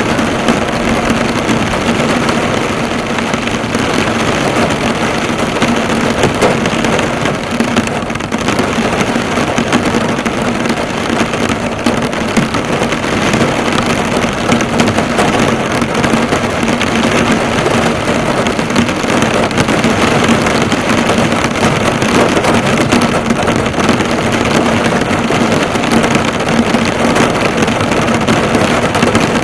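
Heavy rain drumming on a car, drops pattering and bouncing off the bonnet in a dense, steady patter, with a steady low hum underneath.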